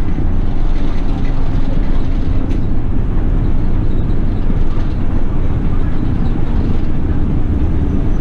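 City bus underway, heard from inside the cabin: a steady low engine drone and road rumble, with no sudden events.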